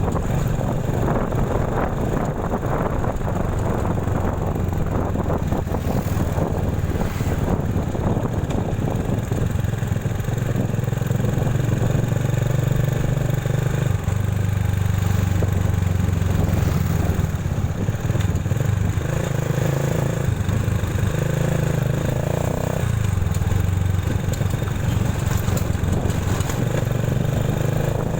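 Motorcycle engine running while riding, its low drone shifting in pitch several times as the speed changes, with steady road and wind noise over it.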